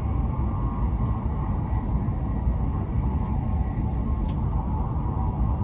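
Hokuriku Shinkansen train running at speed, heard inside the passenger cabin: a steady low rumble with a faint whine over it. A couple of faint ticks about four seconds in.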